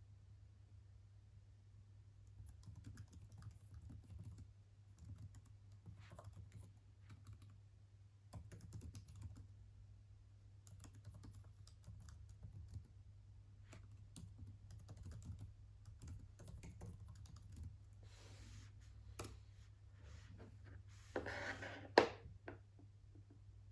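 Typing on a computer keyboard: faint, scattered key clicks over a low steady hum. Near the end, a second of rustling ends in a single sharp knock, the loudest sound.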